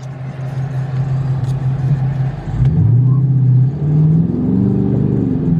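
2018 Dodge Charger R/T's 5.7-litre Hemi V8 running through Super 10 mufflers with the resonators deleted, holding a steady exhaust note. About two and a half seconds in the note dips briefly, then climbs to a higher, louder drone as the car accelerates.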